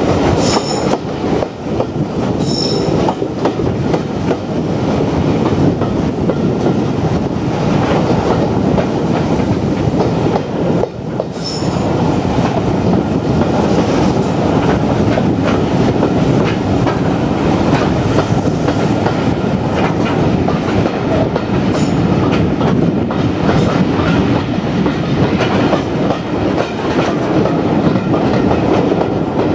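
Passenger carriages of a heritage steam train running at speed: a steady rumble of wheels on rail with irregular clicks over the track. Brief high wheel squeals come twice in the first few seconds and again about twelve seconds in.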